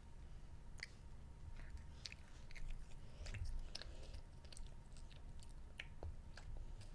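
A child chewing strands of green candy grass, with soft, irregular wet mouth clicks and smacks.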